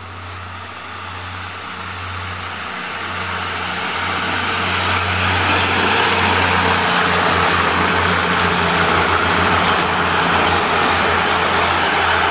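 A diesel railcar passenger train passing close by. A steady low diesel engine drone sits under a rush of wheels on rails that swells over the first few seconds and stays loud as the cars go by.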